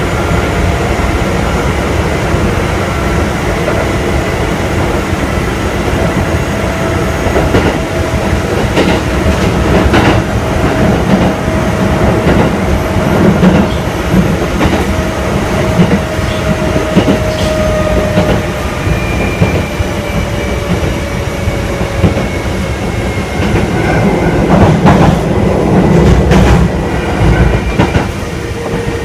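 Kintetsu 1000 series electric train running, heard from inside the passenger car: a steady rumble of wheels on rail with clacks over rail joints, and a faint whine that slowly falls in pitch as the train slows toward its stop.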